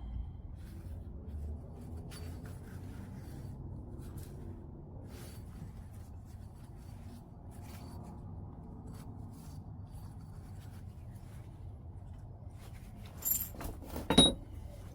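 Flintknapping on white chert: faint scraping and light ticks of stone, then near the end a few sharp clinks, the last the loudest with a brief ringing.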